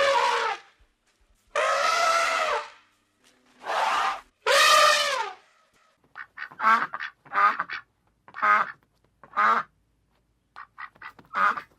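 Ducks calling: four long drawn-out calls in the first half, then a run of short quacks about one a second.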